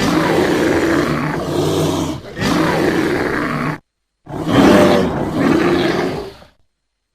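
Bear roaring in rough, low growls: one long roar of nearly four seconds with a short dip midway, then after a brief silence a second, shorter roar that fades out.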